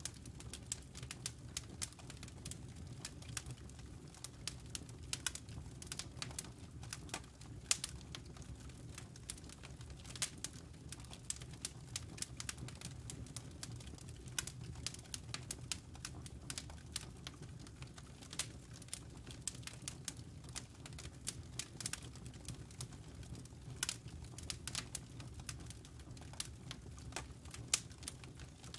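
Campfire burning, with irregular crackles and snaps from the wood and embers over a low steady rumble.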